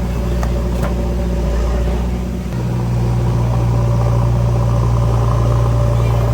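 Heavy diesel engine running steadily. About two and a half seconds in its low note steps up and grows louder, then holds, as when the engine takes load or is revved.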